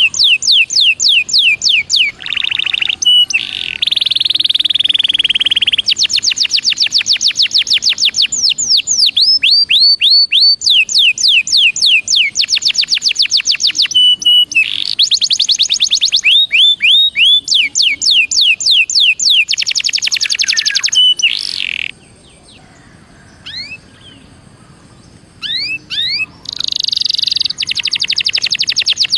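Belgian canary singing: long runs of fast, repeated falling notes alternating with buzzy trills. The song breaks off for a few seconds about three-quarters of the way in, with only a few faint notes, then resumes.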